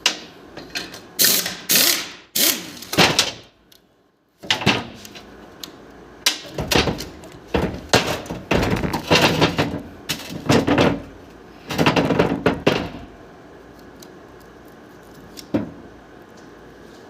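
Tools and metal parts clanking, knocking and scraping in quick clusters, with a short break about four seconds in; from about thirteen seconds it goes quiet apart from one more knock.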